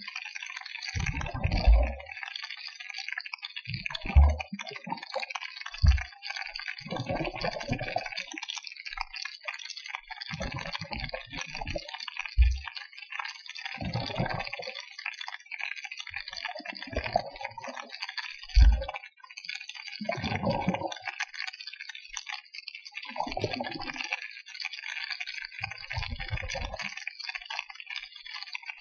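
Water: a steady fine crackling hiss, broken by about a dozen low, dull thumps at irregular intervals.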